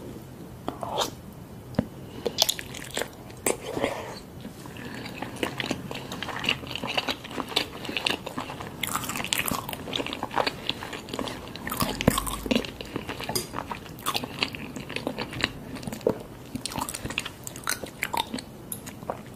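Close-up mouth sounds of a person biting and chewing soft-boiled eggs in spicy broth, with many short wet clicks and smacks throughout.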